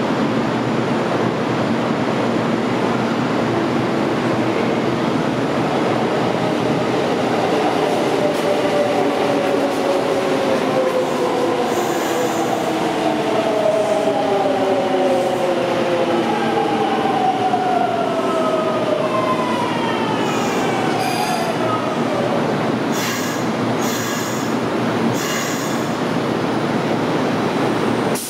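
Kintetsu 3200 series electric train running into an underground station and braking to a stop: a steady rumble of wheels on rail, with the traction motor whine falling in pitch in several tones as it slows. Short high-pitched squeals come in the second half as it comes to a halt.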